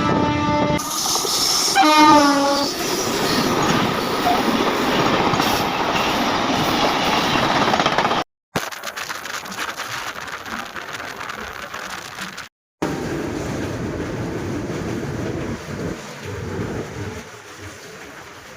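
An Indian Railways train horn sounds a steady multi-tone blast that stops about a second in. A short wavering horn blast follows near 2 s. Then comes the rumble and wheel clatter of a train running past, fading toward the end.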